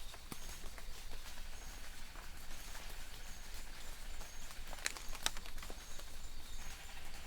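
Light rain falling in a forest: a soft even hiss with scattered drops pattering on leaves, two louder drips about five seconds in. Faint distant birds call in the background.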